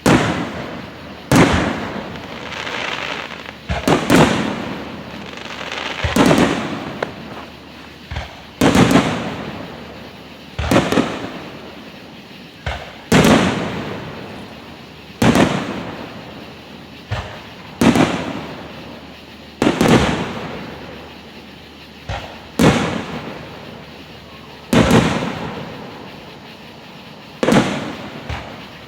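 Aerial firework shells bursting one after another, about one bang every two seconds, each followed by a fading rumble of echo.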